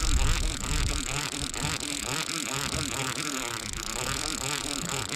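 A fishing boat's engine running steadily, with wind and water noise.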